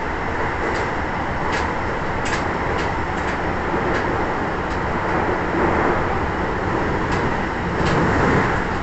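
Toei 10-300 series subway car running along the line: a steady rumble of wheels and running gear, with a few faint, irregular clicks.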